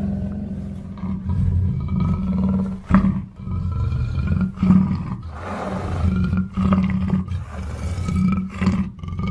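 Black leopard (black panther) growling low and continuously in long stretches, broken by a few short pauses.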